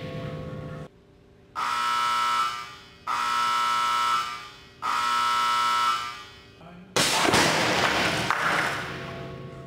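An electric warning buzzer at an impact-test facility sounds three times, each blast about a second long. About seven seconds in, a sudden loud burst of noise follows and dies away over about two seconds.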